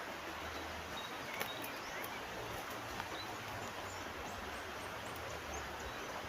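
Steady rush of flowing river water with small birds chirping over it. Two sharp clicks stand out, one about a second and a half in and another at about three seconds.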